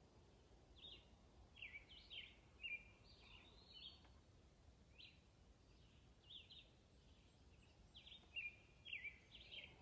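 Faint birdsong: short, high chirps and whistled notes, some gliding in pitch, coming every second or so.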